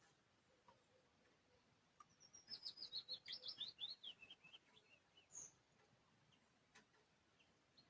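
A small songbird sings one phrase of about a dozen quick high notes, starting about two seconds in and stepping steadily down in pitch over roughly two seconds. Otherwise quiet, with a few faint clicks.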